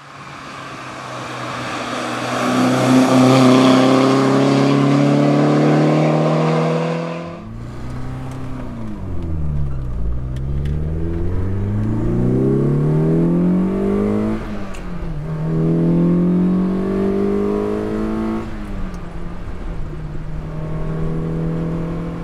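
Lotus Elan's twin-cam four-cylinder engine accelerating hard toward the roadside, its note climbing and growing louder until it cuts off suddenly about seven seconds in. Then the same engine is heard up close from on board, revving up through the gears with sudden pitch drops at each gear change, and settles to a steady note near the end.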